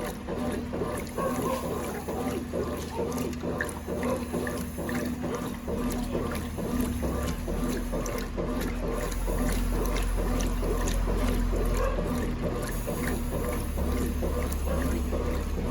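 1996 Brastemp Clean 5 kg top-loading washing machine running a wash: water sloshing in the tub over a steady motor hum that shifts in pitch about six seconds in and again a little before the end.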